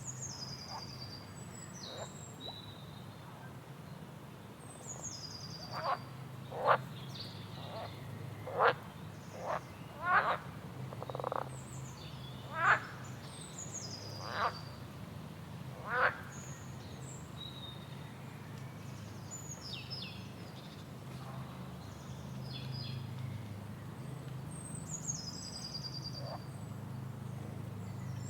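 Wild animals calling: a high, falling whistled note repeated every few seconds, and a run of about eight short, loud calls in the middle stretch, over a low steady hum.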